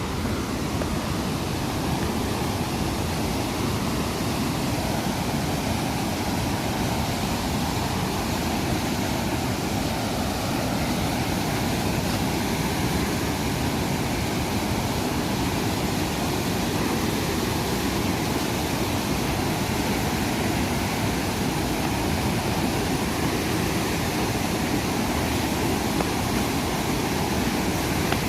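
Adyanpara waterfall: a steady, unbroken rush of falling water.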